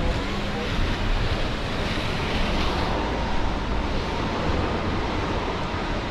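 Steady hiss of a rainy city street: rain and traffic on wet pavement, brightening briefly about two to three seconds in.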